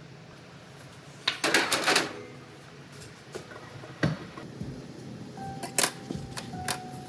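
Clatter of hard objects being handled: a short burst of rattling about a second in, then a few separate sharp clicks and knocks.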